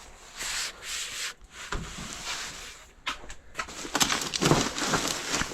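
Objects being dragged and shifted by hand: rough scraping and rubbing in short irregular strokes, busier and louder from about four seconds in.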